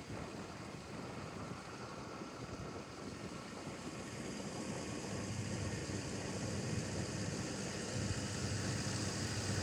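Steady rumble and rushing noise of a vehicle in motion, growing louder from about halfway through.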